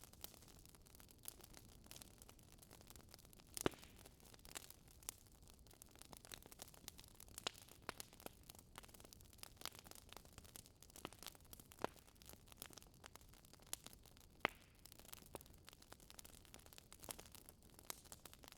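Faint crackling of a wood fire in a fireplace: soft, irregular pops and snaps over a low hiss, with two louder pops.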